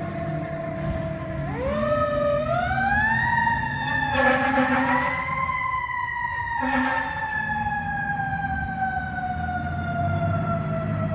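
Fire truck siren winding up in steps to a high wail, then slowly falling away: a mechanical siren's wind-up and coast-down. Two short horn blasts come about four and seven seconds in, over the rumble of the truck's engine passing.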